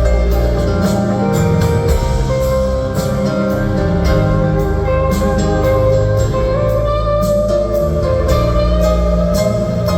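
Live rock band playing, with guitar over bass and regular drum hits.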